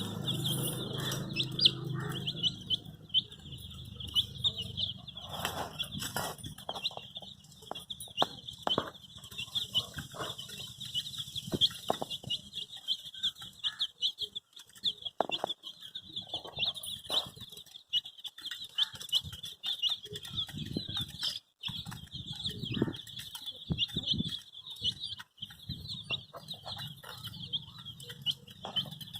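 A brood of baby chicks cheeping together in a dense, continuous chorus of high peeps, with scattered short taps and scuffles mixed in.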